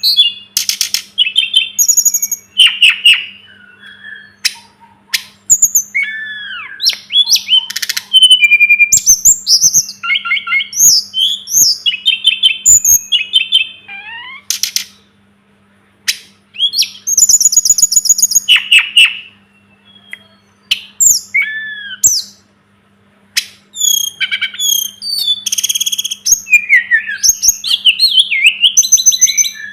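Tledekan gunung (sulingan gunung) singing a varied song of clear whistles, fast trills and rapidly repeated notes, with several short pauses between phrases. A faint steady low hum runs underneath.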